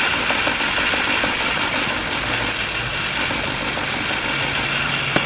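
Steady mechanical hum and hiss with no distinct events.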